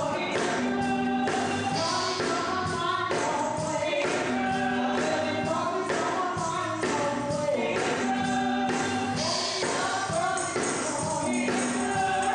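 Gospel choir singing with a band, a tambourine keeping a steady beat.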